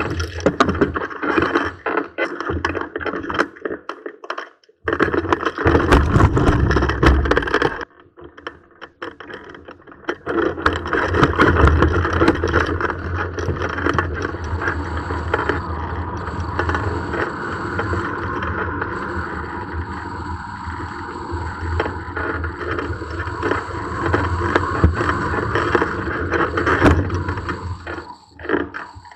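Wind buffeting the microphone on a hang glider in gusty air: a steady rushing noise with a gusting low rumble, dropping out briefly twice in the first eight seconds.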